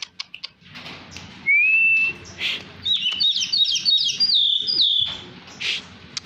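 Oriental magpie-robin (kacer poci) singing: a smooth rising whistle about a second and a half in, then a quick run of warbled, stepping whistled notes for about two seconds. Light ticks sound throughout.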